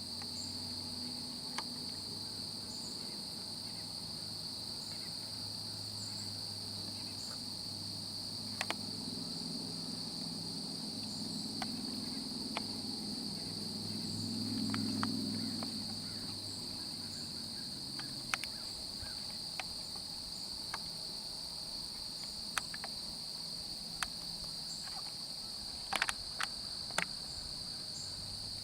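Steady chorus of crickets, a continuous high trill. A low rumble swells and fades midway, and scattered sharp ticks come through, several close together near the end.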